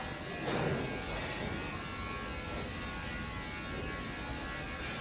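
Steady electrical buzz with a humming drone from factory machinery, with a brief louder swell about half a second in.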